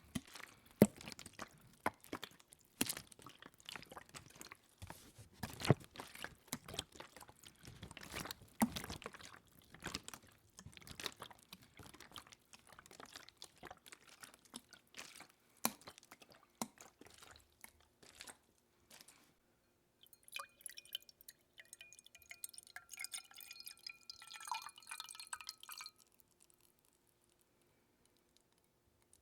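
Water dripping and splashing in many irregular, close-miked drops. About two-thirds of the way in comes a few seconds of pouring liquid with ringing tones, one of them rising, which stops shortly before the end.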